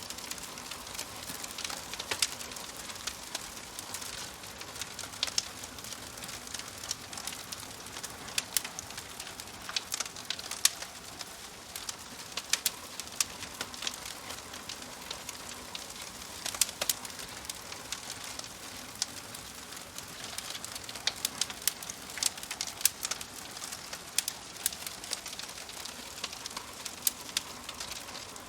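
Wood fire crackling steadily, with sharp pops and snaps scattered over a soft hiss of burning.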